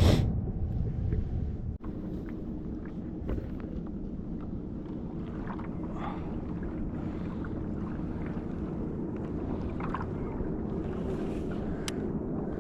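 Steady wind buffeting the microphone over water noise around a fishing kayak, with a few faint clicks.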